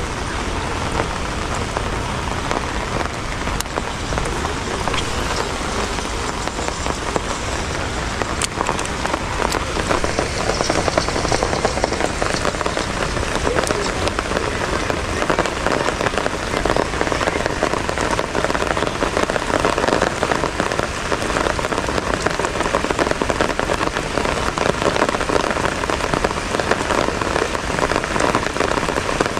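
Heavy rain pouring down, a dense steady patter that gets louder about ten seconds in.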